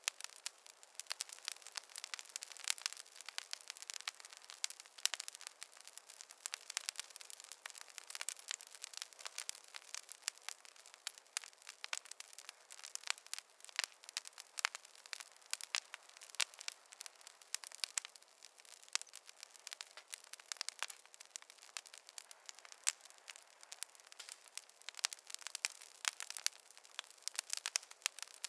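Wood fire crackling: a steady stream of small, irregular pops and snaps from burning logs, thin and high with no low rumble.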